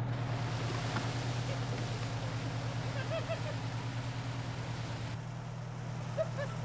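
A fire truck's engine runs steadily over the hiss of water spraying from an open hose valve. The spray hiss drops off about five seconds in, while the engine hum carries on.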